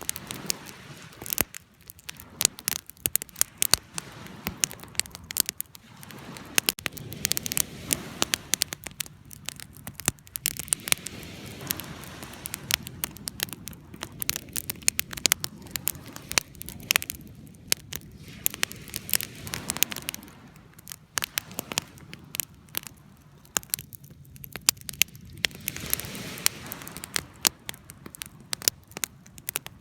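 Wood fire burning, with a constant irregular crackle of sharp pops and snaps over a low, steady rush of flame.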